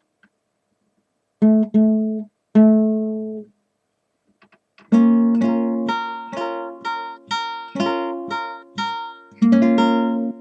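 Acoustic guitar strumming the closing chords of a song: three chords, a short pause, then a run of chords about two a second ending on one held chord that rings on.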